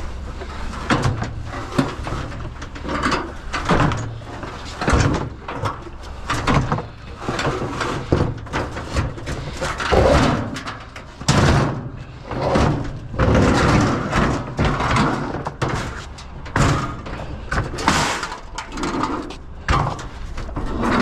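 Repeated metal bangs, knocks and scraping as heavy scrap appliances are shoved and turned on a trailer, over a steady low hum.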